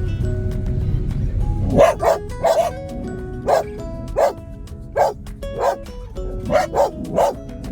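A dog barking repeatedly, about a dozen sharp barks starting about two seconds in, over background music.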